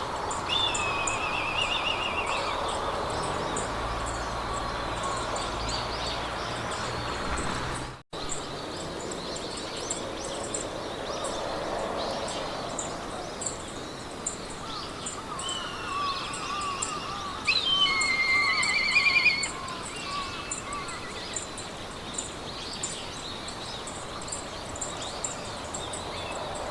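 Meadow ambience: several songbirds singing in short trilled phrases, the loudest about two-thirds of the way through, over a steady hiss of wind in grass. A high, fast, regular ticking runs underneath throughout, and the sound drops out for an instant about eight seconds in.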